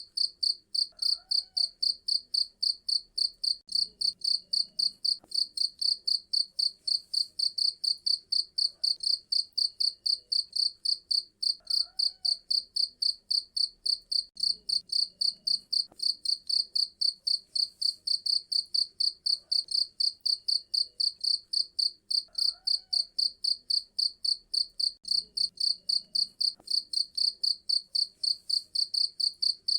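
A cricket chirping loudly in a steady, high-pitched rhythm of about four chirps a second.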